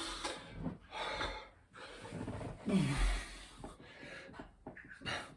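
A man breathing hard mid-workout between burpee reps: heavy gasping breaths and exhales, with a falling grunt and a dull thud of his body dropping to the floor about three seconds in.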